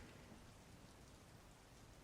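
Faint, steady rain ambience: an even hiss of falling rain, the background rain track under the whispering.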